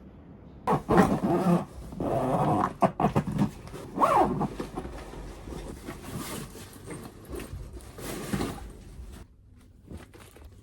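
An animal's loud vocal calls, several in quick succession over the first few seconds, then weaker and trailing off after about nine seconds.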